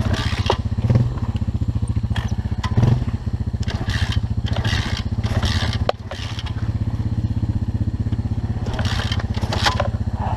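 Pit bike engine running at a steady idle. About six seconds in it briefly dips sharply, then picks back up. Short scraping noises come and go over it.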